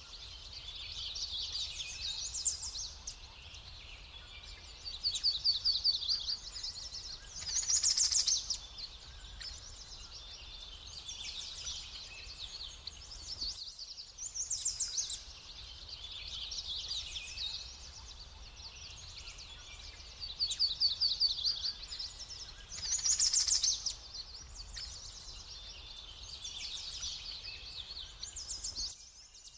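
Songbirds singing, a dense chorus of rapid chirps and high trills, with louder flurries now and then over a faint low hum.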